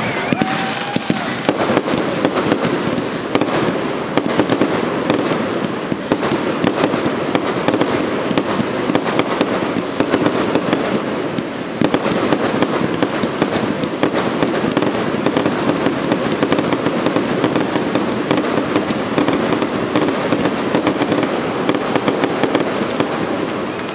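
Fireworks display: a dense, continuous barrage of aerial shells bursting, many sharp bangs and crackles overlapping without a break.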